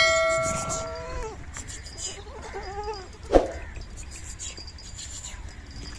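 Beetal goat kids bleating: a long, high bleat that falls off about a second in, then a shorter wavering bleat in the middle. A sudden sharp knock comes just after the middle.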